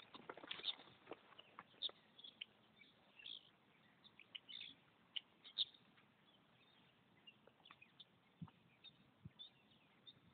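Faint birds chirping in short, scattered calls, with a few brief louder chirps.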